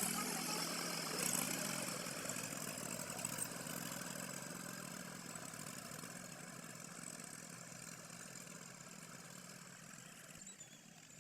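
Tractor engine running steadily, growing gradually fainter.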